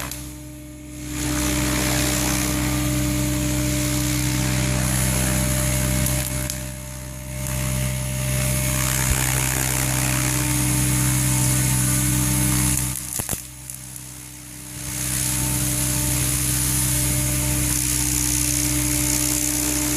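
Electric Goblin 700 R/C helicopter flying, its main rotor and motor making a steady whine over a hiss of rotor wash. The sound drops away sharply three times: just after the start, around seven seconds in, and for about two seconds past the thirteen-second mark.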